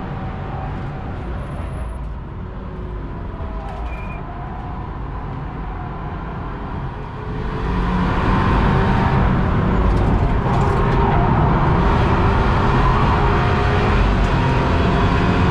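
BMW 328i F30's turbocharged four-cylinder engine and road noise heard from inside the cabin while lapping the track. It is quieter through roughly the first half and grows louder about seven seconds in.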